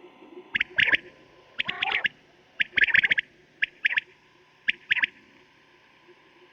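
Quail (batair) calling: about five quick groups of sharp, clipped high notes, two or three notes to a group, coming roughly once a second and stopping about five seconds in. A faint steady hum lies underneath.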